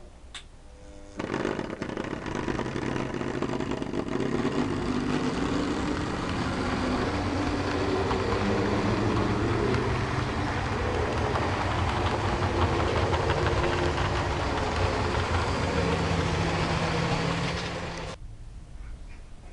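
Diesel engine sound from an OO gauge model diesel locomotive running on the layout. It starts abruptly about a second in, runs steadily with a shifting engine note, and cuts off near the end.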